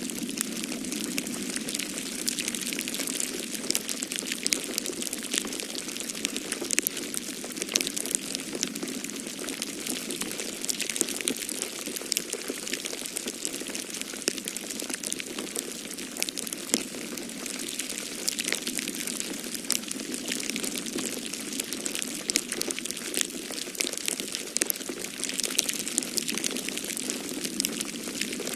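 Wood fire in a fireplace crackling, with many small sharp pops and snaps over a steady rushing hiss.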